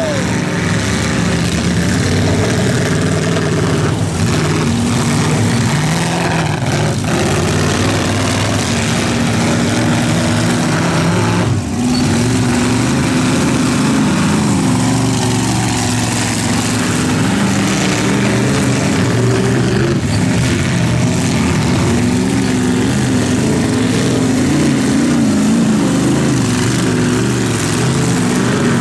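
Demolition derby cars' engines running and revving together, loud and continuous, their pitch rising and falling as the drivers rev and back off.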